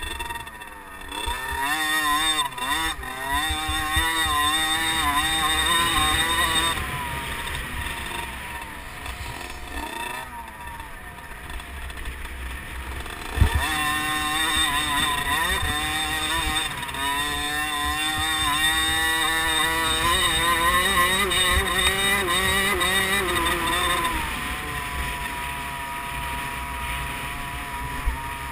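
Small 50cc liquid-cooled two-stroke motocross bike engine revving hard, its pitch rising and falling repeatedly as the throttle is worked on and off. A sharp low thump comes about halfway through.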